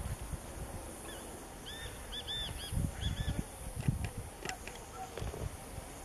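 A small songbird calling a quick run of about six short, high, arched chirps, starting about two seconds in, over irregular low thuds and rumble.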